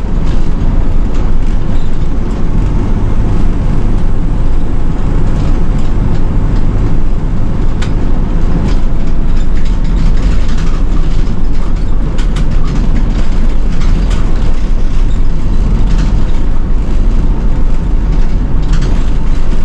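City bus diesel engine running, heard from inside the bus: a steady low drone with scattered rattles and clicks from the cabin.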